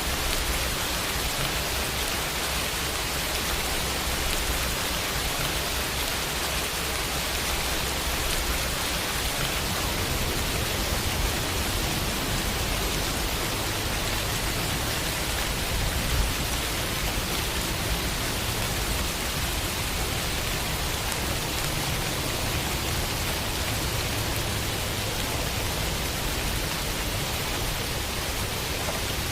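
Steady summer rain falling on a window, an even hiss with a few slightly louder drops.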